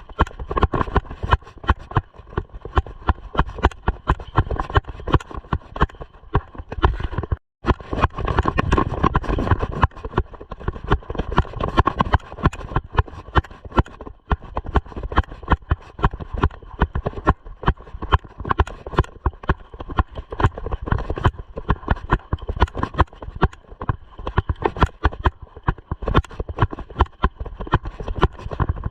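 Mountain bike clattering and knocking over a rough dirt trail: a dense, irregular run of bumps and rattles, cut off for an instant about seven and a half seconds in.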